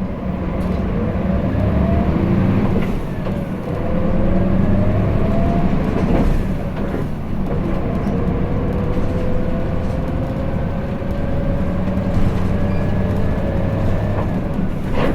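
Hino Blue Ribbon City diesel city bus pulling away from a stop and accelerating, heard inside the cabin: a steady low engine drone with a whine that rises slowly in pitch, breaking briefly about 3 and 6 seconds in as it changes gear.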